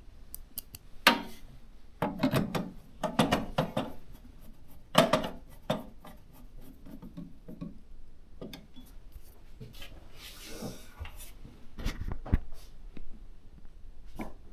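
Clicks, taps and light knocks of small metal and plastic PC parts being handled and fitted inside a computer case as a motherboard is installed, with a brief rubbing hiss about ten seconds in and a couple of dull thumps near twelve seconds.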